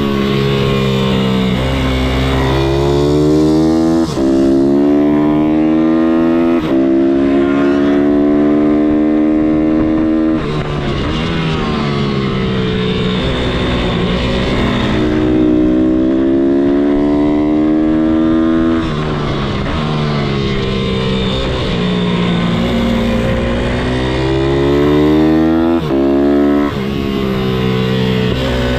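MRF 160-R SM pitbike's single-cylinder four-stroke engine at full throttle, repeatedly climbing in pitch with a brief drop at each gear change. Between the runs of acceleration the engine eases off and winds down before pulling up through the gears again.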